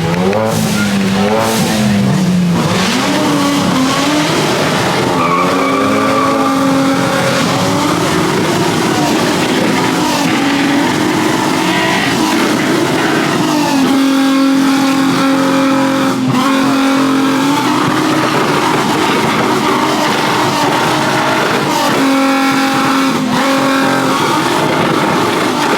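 Cars at a car meet running and revving, with long tyre squeals whose pitch wavers and holds for seconds at a time.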